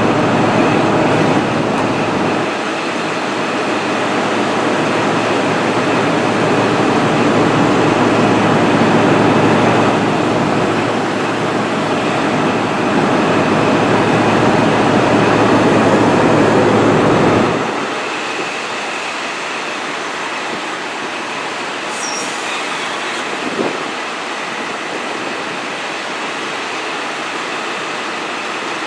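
East Midlands Trains HST with Mark 3 coaches rolling slowly into the platform, a steady rumble that drops noticeably about 17 seconds in. About 22 seconds in, a brief high brake squeal.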